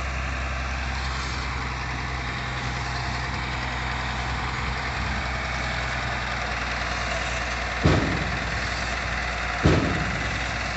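Truck engine idling steadily, with two sharp knocks about two seconds apart near the end.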